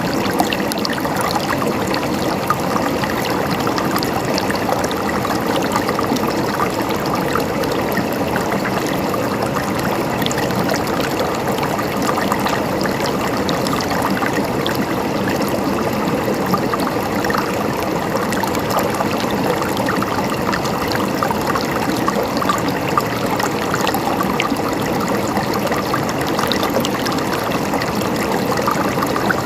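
River water flowing steadily over stones, a continuous even rush with fine splashing and gurgling detail.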